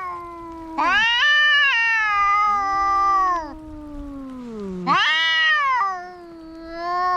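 Cats fighting: long, loud, drawn-out yowls and caterwauls that waver and bend in pitch, with a lower growling yowl sliding down in pitch between them. Three main yowls, about a second in, around five seconds in, and a weaker one near the end.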